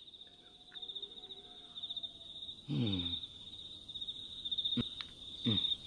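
Insects chirring steadily in a continuous high, finely pulsing trill. Twice a brief low vocal sound falls in pitch over it, about halfway through and near the end, and there is a single sharp click shortly before the end.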